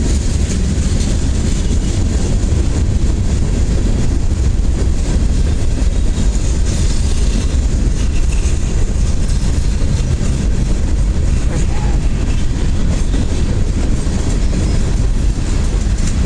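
Norfolk Southern local freight train rolling past, a loud, steady rumble of wheels on the rails.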